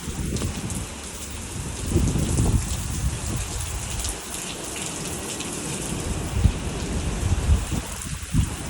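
Heavy rain pouring down in sheets, a steady hiss, with gusts of wind buffeting the microphone in uneven low surges.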